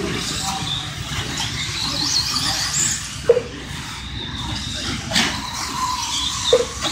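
Several electric 1/10-scale RC racing trucks running on the track, their motors whining high and gliding up and down in pitch with the throttle. A sharp knock comes about five seconds in.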